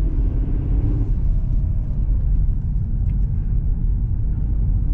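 Steady low rumble of a car driving slowly on packed ice and snow, heard from inside the cabin: road and tyre noise over the engine.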